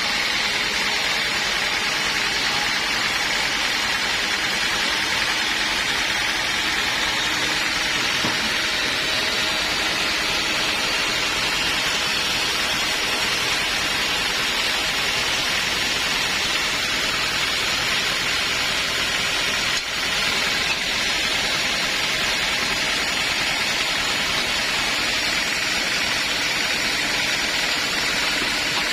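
Sawmill saw running steadily through teak wood, an even cutting noise with a short dip about twenty seconds in.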